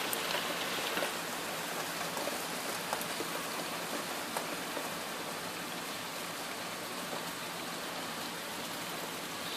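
Heavy rain falling steadily, a constant hiss of rain hitting surfaces with scattered drop ticks.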